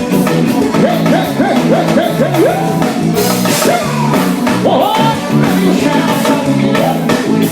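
Loud forró band music with a lead singer sliding between notes over a drum kit and guitar.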